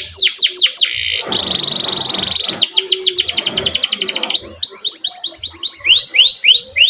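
Domestic canary singing: fast rolling trills, a buzzy churring stretch about a second in, then a quick run of high trilled notes. It ends in rapid chirps that sweep down and then rise, repeated several times.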